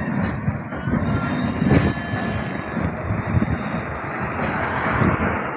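Passenger train running along the track, a steady rumbling rush with irregular wheel knocks and clatter, one sharper knock a little under two seconds in.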